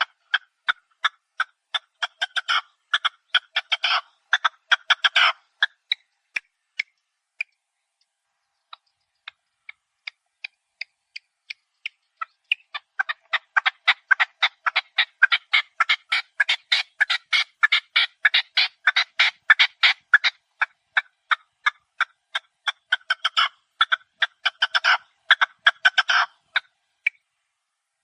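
Chukar partridges calling: rapid runs of short, clucking chuck notes. A dense burst at the start thins to scattered notes, then a second long dense burst builds before thinning out near the end.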